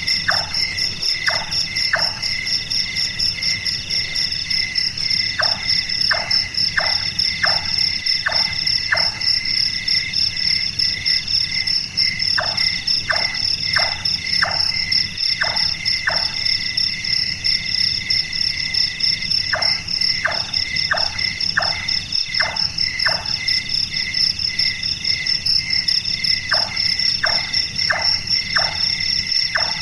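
Large-tailed nightjar calling: hollow, knocking 'chonk' notes like a hammer on wood, in series of five or six notes a little over half a second apart, repeated every several seconds. Behind them is a steady shrill chorus of crickets and other night insects.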